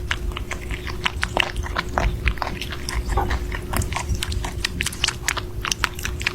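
A pet chewing: rapid, irregular crunching clicks with a faint steady hum underneath.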